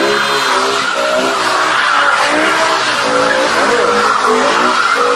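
BMW E60 M5's 5.0-litre V10 revving high, its pitch rising and falling with the throttle, over the continuous screech of the rear tyres spinning through a donut.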